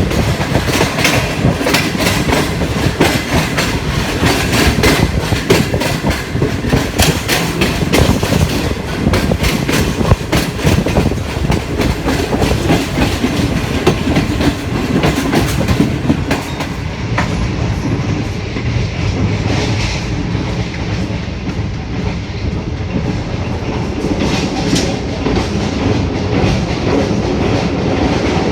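Passenger express train running at speed, its wheels clattering over rail joints and points with many sharp clicks; about two-thirds of the way through the clicking thins out and the running noise goes on more evenly.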